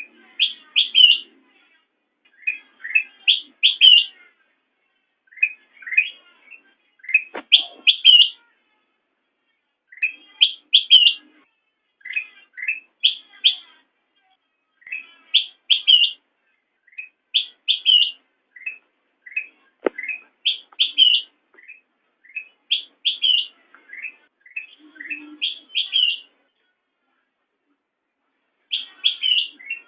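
Kutilang emas bulbul singing: short phrases of quick, bubbly notes repeated about every two seconds, with a pause near the end. Two sharp clicks are heard, about a third of the way in and again at about two-thirds.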